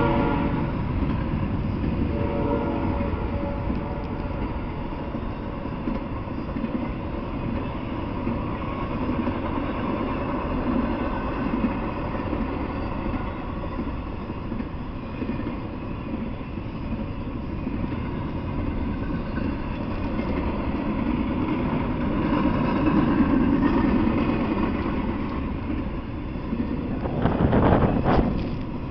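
Intermodal freight train passing: the steady rumble and rattle of container and trailer cars rolling over the rails, with a brief louder surge of noise near the end.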